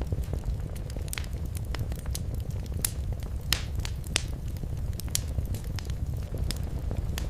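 Wood fire burning in a fireplace: a steady low rumble of flames with irregular sharp crackles and pops, a few of them louder, about three and four seconds in.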